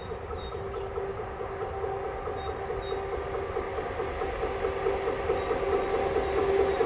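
Approaching train, a steady humming drone that grows louder.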